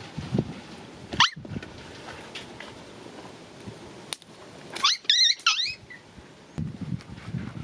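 An animal's high-pitched squeaky calls: one short call about a second in, then a quick run of three or four wavering calls a few seconds later.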